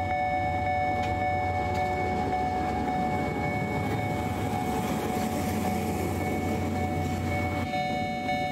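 Diesel train of the Watarase Keikoku Railway running, with a steady low rumble and a constant high hum. The rumble drops away near the end.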